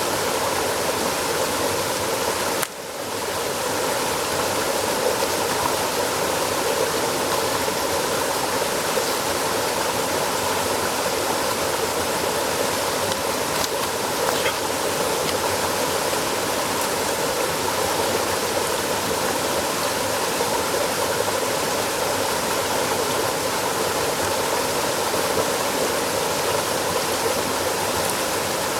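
Steady rushing of flowing water, with a brief drop in level about three seconds in.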